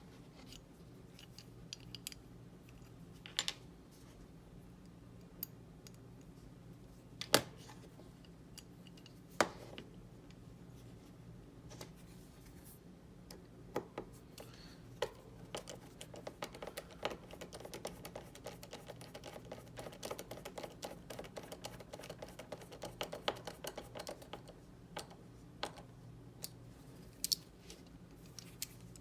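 Small model-kit parts being handled and fitted: scattered sharp clicks and taps, then a run of rapid small scratchy clicks from about fifteen to twenty-five seconds in.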